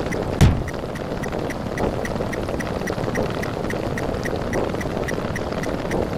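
Sound-effect track of a counting video: a dense, steady noisy rumble with quick regular ticks about five a second, and one short low boom about half a second in.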